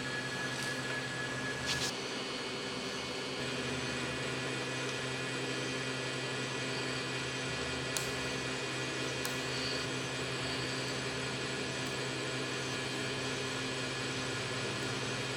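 A machine running with a steady hum that holds a fixed pitch, with a few faint clicks. A high tone present at the start stops at a click about two seconds in.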